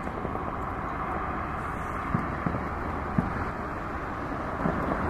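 Fireworks bursting at a distance: a few short, low booms from about two seconds in, over a steady background hiss.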